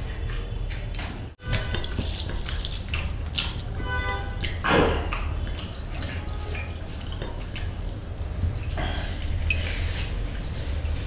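Close-miked eating sounds: wet chewing and lip-smacking as a man eats chicken biryani rice and chicken by hand, made up of many short sharp clicks over a steady low hum.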